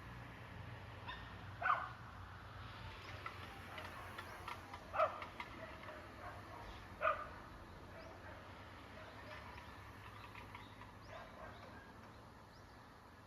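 A cat meowing three short times, a couple of seconds apart.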